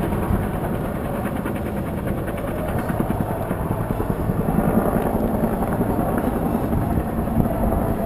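AH-1 Cobra attack helicopter in flight, heard from aboard: steady rotor and turbine noise.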